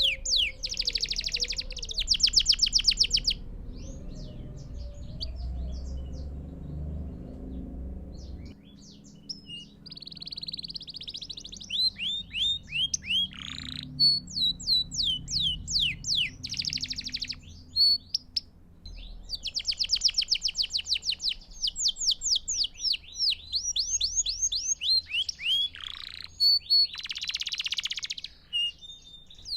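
Belgian canary singing: phrases of fast trills and rolls of rapidly repeated notes, mixed with quick whistled sweeps, broken by short pauses. A faint low rumble runs under the first few seconds.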